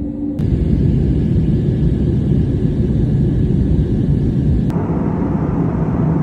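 Steady low rumble of a moving vehicle. It switches abruptly to a louder rumble about half a second in, and changes again a little before five seconds in to a brighter, hissier rumble.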